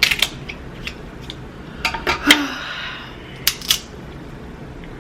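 King crab leg shells being cracked and snapped apart by hand: several sharp cracks, coming in small clusters at the start, around the middle and past three seconds.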